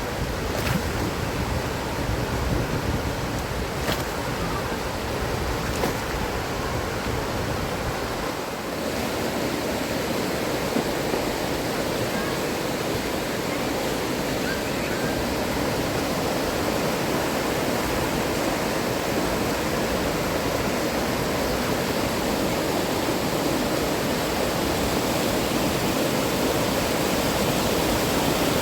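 Steady rushing of a fast-flowing river. Its tone shifts about eight seconds in, and there are a few faint ticks before that.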